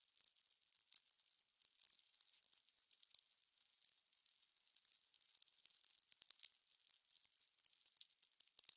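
Fire crackling: a thin, high hiss with many irregular small pops and snaps.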